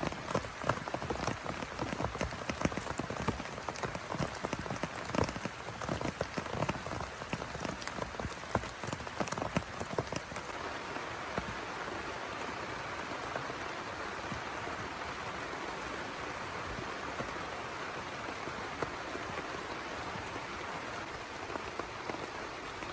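Heavy rain falling, many separate drop hits standing out over the downpour for the first ten seconds or so, then settling into a steady, even hiss.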